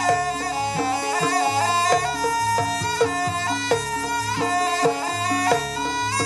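Live jaranan troupe music: a sustained melody line that moves step by step over regular drum strokes.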